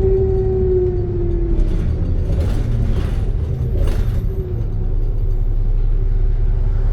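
ADL Trident II Enviro 400 double-decker bus running, heard on board: a steady low engine and road rumble. A high whine falls slightly in pitch and fades out about a second and a half in, and a few short rattles come around the middle.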